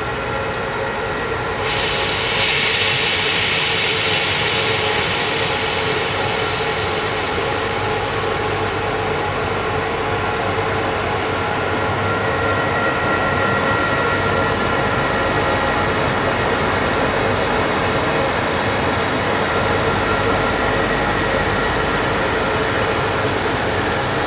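Freight train hauled by a CFR class 060-EA (LE 5100 kW) electric locomotive passing close by: a steady rolling rumble with several steady whining tones. A high hiss starts sharply about one and a half seconds in and fades over several seconds.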